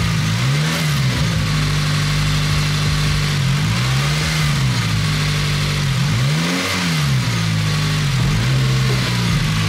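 Turbocharged FRS/BRZ's flat-four boxer engine idling, with a few light throttle blips about every two to three seconds that briefly raise the revs and let them fall back, the third one the highest. The gas is being blipped to check whether the blow-off valve, which sits slightly open at idle, closes; the owner suspects that gap is why the engine dies off-throttle.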